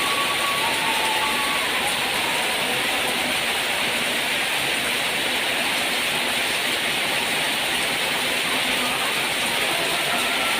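Steady rain falling on a garden, an even hiss that does not change. A few faint short whistling tones sound in the first two seconds.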